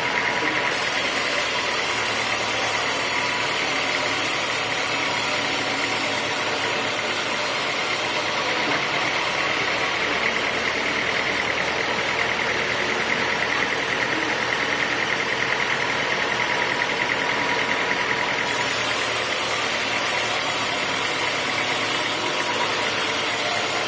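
Homemade sawmill's machinery running steadily, with a high hiss that stops and starts a few times.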